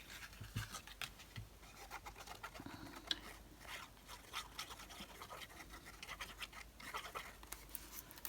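Faint, irregular scratching and light clicks from hands working with craft materials on a desk.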